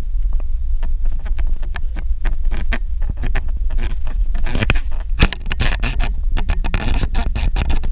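A vehicle driving on a dirt road: a steady low rumble with rapid, irregular crackling and clicking of gravel and stones under the tyres, including a sharper knock about five seconds in.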